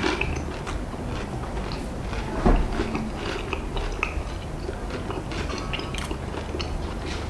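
A person biting into and chewing a plain rice cracker, with irregular crisp crunches and one louder crunch about two and a half seconds in.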